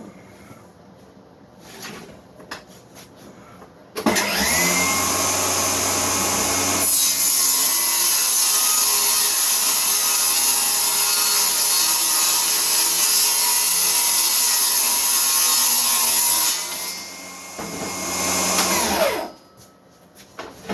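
Electric power saw spinning up about four seconds in, running steadily for about fifteen seconds while trimming a board, then winding down.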